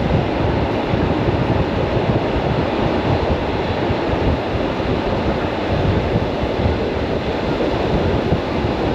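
Suburban electric train running, heard from on board: a steady low noise with no distinct wheel clicks.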